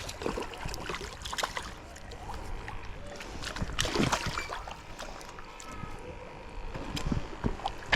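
Light water splashing with scattered knocks and rustles of handling.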